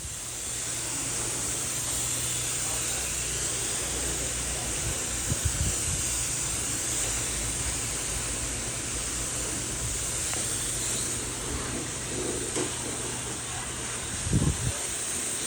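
A steady loud hiss that starts abruptly, over a low hum, with a couple of brief low thumps.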